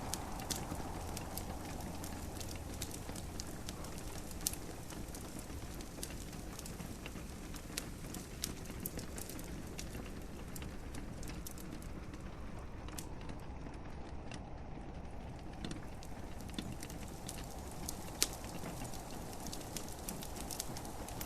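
Wood fire crackling with scattered sharp pops over a steady hiss of rain.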